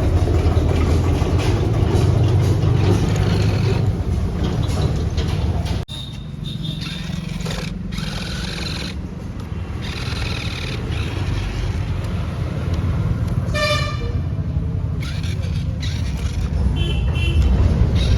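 Tractor engine running steadily, broken off by an abrupt cut about six seconds in. A short horn toot sounds after the middle and a fainter one near the end.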